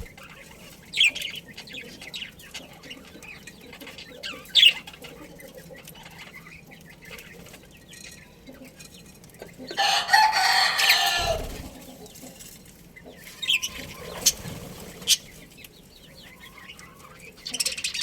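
A rooster crows once, loud and lasting about a second and a half, about ten seconds in. Short, high bird chirps come now and then before and after it.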